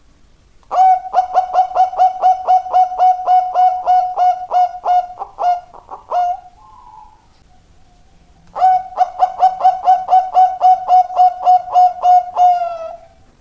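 Zebra dove (perkutut) singing: two long bouts of rapid, evenly repeated coos, about four a second, with a pause between them.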